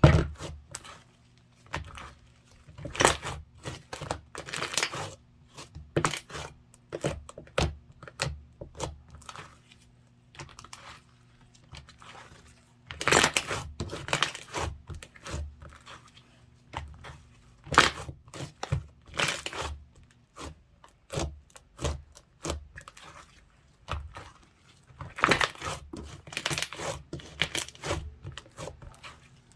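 Slime being worked by hand, squished, pressed and pulled, giving irregular bursts of crackling and popping clicks with short quiet gaps between them.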